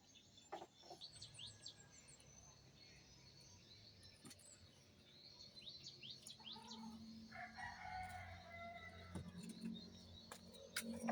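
Faint birdsong: short high chirps throughout, with a longer, lower call of about a second and a half some seven seconds in.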